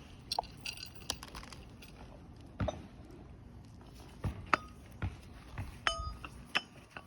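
Scattered light metallic clinks and taps as roofing nails and a metal roofing tool are handled, a few of them ringing briefly.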